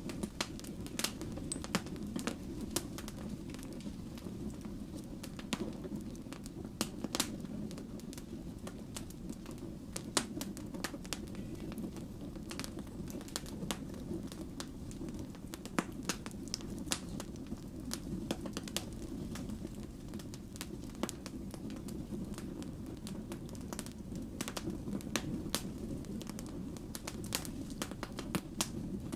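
Wood fire burning, with a steady low rumble of flames and frequent irregular sharp crackles and pops from the burning logs.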